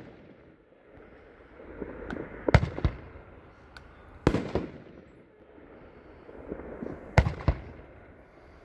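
Top Guns nine-shot consumer firework cake firing: about five sharp bangs of shells breaking, some in quick pairs, each trailing off in a rumbling echo. The breaks are low willow effects.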